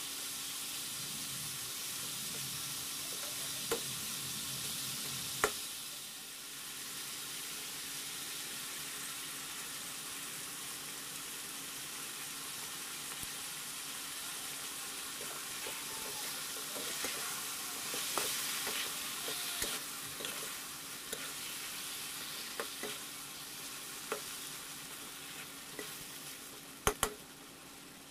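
Pork pieces sizzling as they fry in a metal wok, stirred with a metal ladle that scrapes and clicks sharply against the pan several times, loudest twice near the end. The sizzle eases off over the last couple of seconds.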